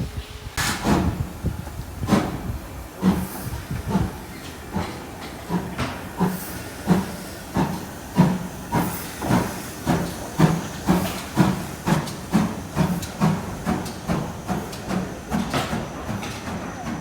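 Steam locomotive pulling away, its exhaust chuffing in sharp, even beats that quicken from a little over a second apart to about two a second as it gathers speed.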